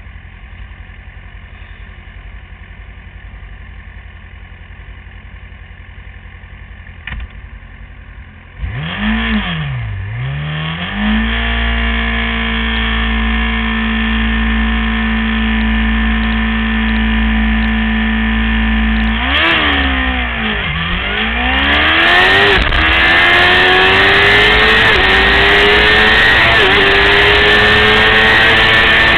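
600 cc racing motorcycle engine idling low, then blipped once and held at steady higher revs for several seconds. It dips and then accelerates hard, its pitch climbing with short drops at gear changes near the end.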